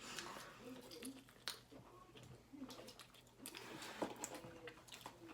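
Faint chewing and eating sounds close to the microphone, with a few small clicks, the clearest about a second and a half in and again about four seconds in.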